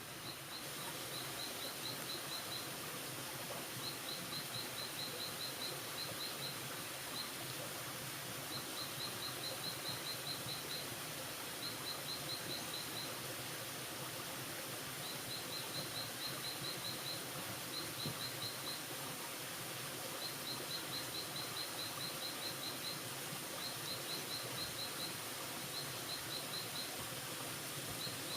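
Forest ambience: a steady background hiss with a small animal's rapid high chirps, repeated in short runs of about a second with brief gaps between them.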